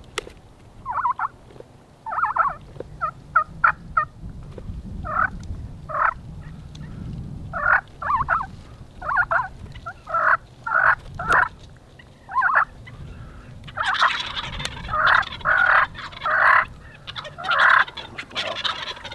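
Several turkeys gobbling over and over, short rattling gobbles coming one after another and overlapping, getting denser and louder in the last few seconds.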